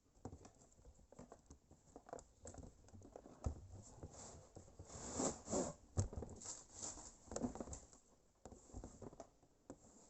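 Drill packaging and its soft plastic carrying case being handled and opened by hand: scattered clicks, taps and rustling, busiest about four to six seconds in.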